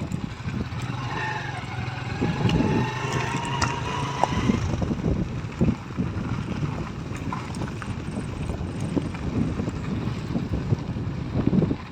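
A vehicle driving along, its low rumble mixed with wind buffeting the microphone. A faint, slowly rising whine is heard from about one to four seconds in.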